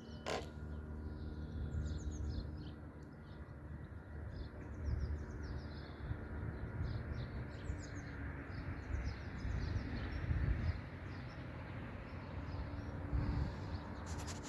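Small birds chirping and singing in short, repeated calls, over a low uneven rumble. A single sharp click sounds just after the start.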